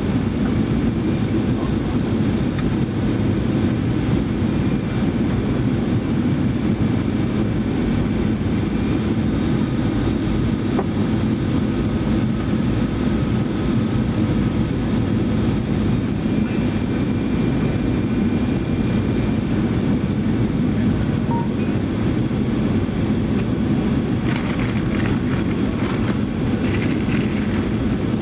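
Steady in-cabin noise of a Boeing 737-900ER on approach: the CFM56-7B turbofans and the airflow past the fuselage make a deep, even rush, with faint steady whines above it. Near the end a few seconds of extra hiss rise over it.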